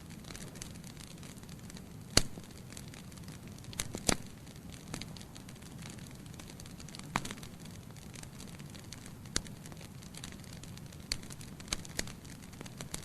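Wood logs burning in a fireplace: irregular sharp crackles and pops over a steady low rush of flame. The loudest pop comes about two seconds in.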